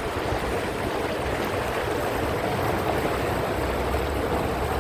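Steady noise of a canal tour boat under way: a low motor hum mixed with water rushing along the hull.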